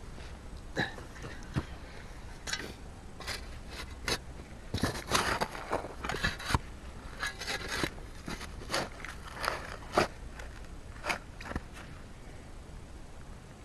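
Digging in soil with a hand tool: irregular scraping and crunching strokes into the dirt, busiest partway through and stopping near the end.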